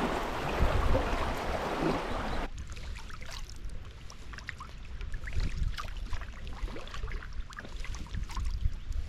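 Kayak paddling on a river: a loud rush of wind and water for the first couple of seconds, then after a sudden drop, quieter water with scattered splashes and drips from the paddle strokes over a low wind rumble.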